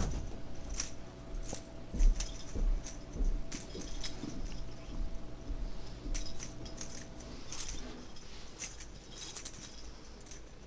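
Light metallic jingling and scattered small clicks as a dangling Angry Birds toy is swung and batted by kittens.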